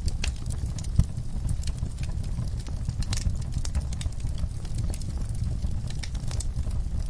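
Wood fire crackling in a fireplace: irregular sharp pops and snaps from the burning logs over a steady low rumble of the flames, with one louder pop about a second in.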